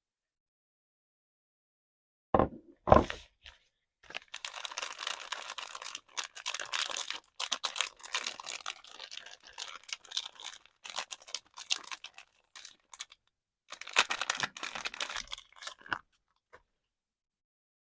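Soap packaging being unwrapped by hand: two sharp knocks, then a long stretch of crackling, tearing wrapping with short pauses, and another short burst of rustling near the end.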